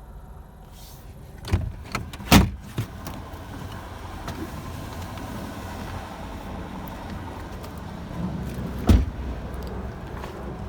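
A 2006 Chevy Cobalt's 2.2-litre four-cylinder engine idling steadily. Sharp thumps land about a second and a half and two and a half seconds in, the second the loudest, and another comes near the end.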